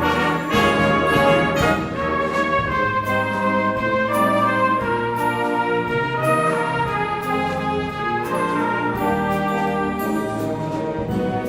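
A high-school symphonic wind band playing a Christmas arrangement, with brass carrying sustained chords over a bass line.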